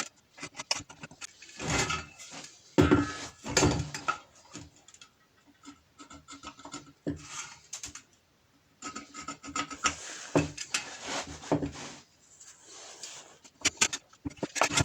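Irregular scratching and rubbing on a steel square tube while a mounting spot is marked out, with a few short knocks of tools or metal being handled and a brief pause about two thirds of the way in.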